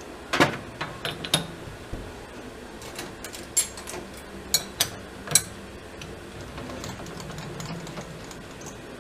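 Scattered sharp metal clicks and knocks, about seven in the first half, the loudest near the start, over a faint steady hum as tooling and a brass part are handled at a lathe.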